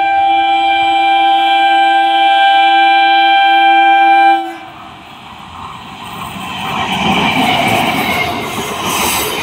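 Electric multiple unit (EMU) local train sounding its horn in one long steady chord that cuts off suddenly about four seconds in. Then the train running past, its wheels clattering on the rails and growing louder.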